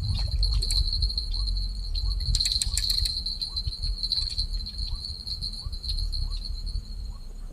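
Insects trilling steadily at one high pitch over a low rumble, with faint short chirps repeating about twice a second and a few sharp clicks about two to three seconds in.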